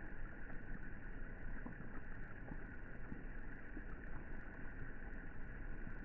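Rain falling on the water of a swimming pool: a steady rushing noise with many small, irregular drop splashes scattered through it.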